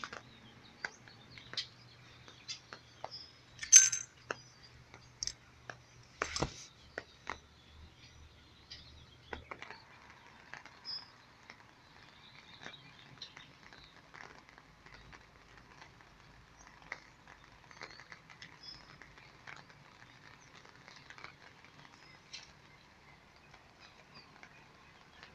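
Rain falling on a wet street: scattered drips ticking and tapping close by over a faint steady hiss, with two louder taps about four and six and a half seconds in. A faint low hum runs under it and fades out after about ten seconds.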